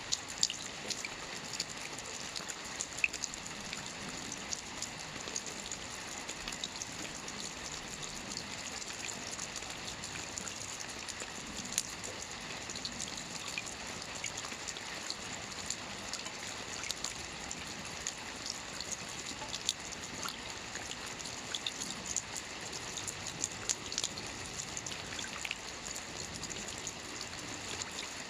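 Steady light rain: a soft even hiss with many scattered drops ticking sharply on a surface.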